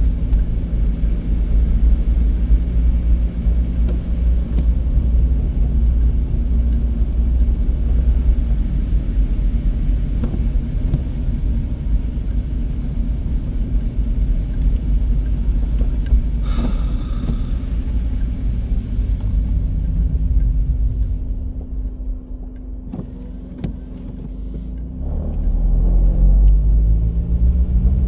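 Car driving on a snowy road: a steady low engine and tyre rumble with a brief hiss partway through. It quietens for a few seconds, then the engine note rises again as the car speeds up near the end.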